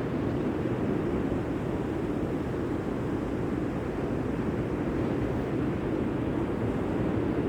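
Steady rushing noise of sea surf and wind, with wind on the microphone. The level stays even throughout, with no separate events.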